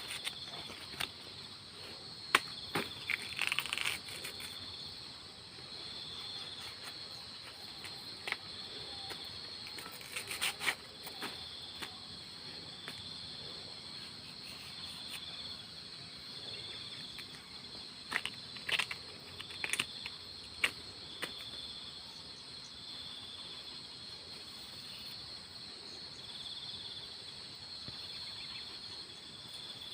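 Crickets chirring steadily in a pulsing chorus, with scattered sharp snaps and knocks as a banana stem's outer layers are stripped to reach the soft inner core.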